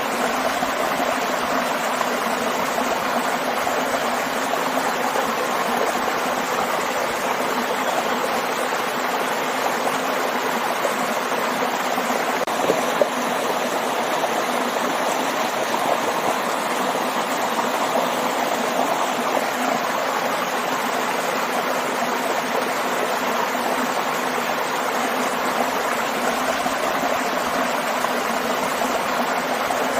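Waterfall and stream water rushing and splashing over rocks, a steady dense wash of water sound with small splashes standing out now and then.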